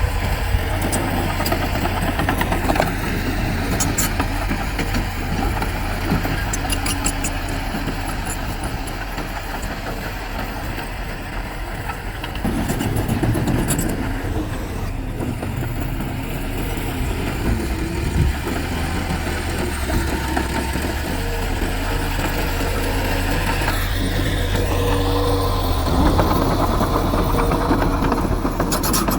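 Heavy diesel earthmoving machinery running steadily, with a few metallic clanks; the engine revs up near the end.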